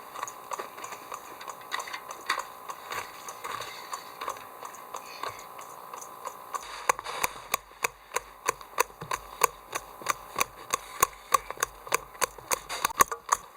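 Knife chopping on a cutting board. The strokes are scattered at first, then settle into a steady chop of about three to four strokes a second from about halfway.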